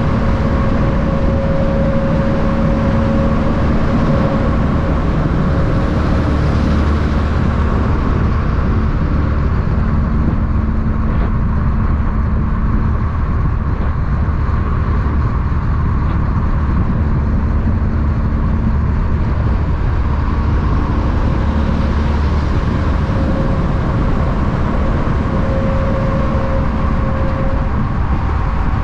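Heavy vehicle engine running steadily: a continuous low rumble with a steady hum over it. The rumble grows deeper and heavier for a stretch in the middle, then eases.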